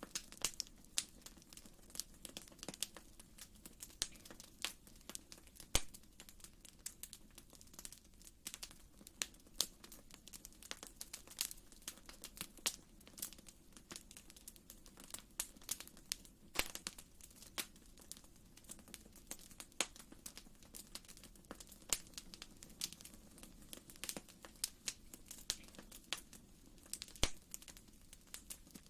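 Wood fire in a fireplace crackling, with irregular sharp pops several times a second over a steady low background.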